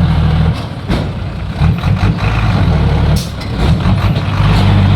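Heavy diesel engine of a loaded dump truck running, its pitch rising near the end as it revs. A short hiss of released air comes about three seconds in.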